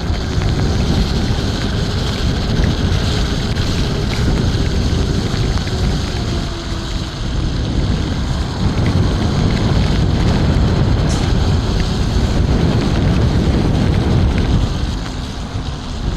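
Wind rushing and buffeting over the rider's microphone on an electric scooter ridden at speed in wet, windy weather, a steady heavy rumble that eases slightly near the end.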